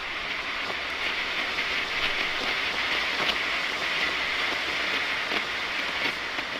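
Smoke tube hissing steadily as it burns and pours out smoke from both ends, with faint crackles through the hiss.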